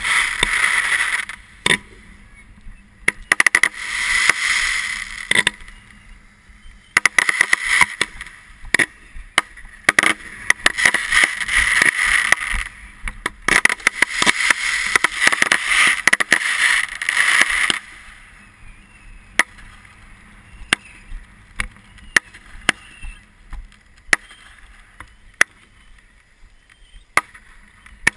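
Fireworks hissing and fizzing at close range in repeated bursts for about the first eighteen seconds, with sharp cracks and pops scattered throughout.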